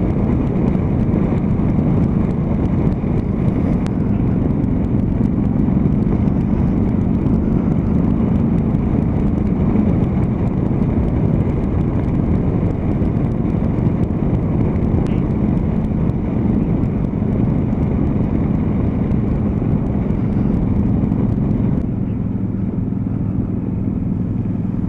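Suzuki V-Strom motorcycle's V-twin engine running at a steady cruise, heard with wind and road noise while riding. Near the end the engine note drops lower and the sound gets a little quieter as the bike eases off.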